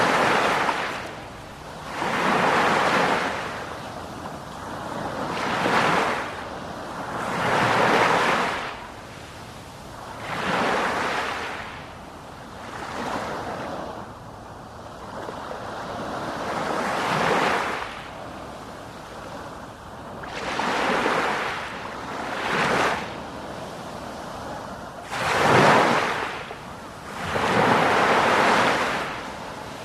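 Sea waves breaking and washing in, one after another, each swell of surf rising and fading every two to three seconds.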